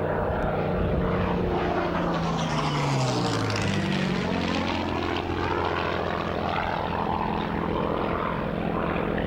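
Piston-engined propeller aircraft flying past, its engine pitch dropping about three seconds in and then holding steady as it moves away.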